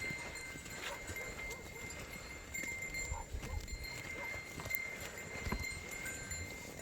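Flock of sheep grazing: faint irregular rustling of grass being torn and small clicks and knocks of hooves, with no bleating.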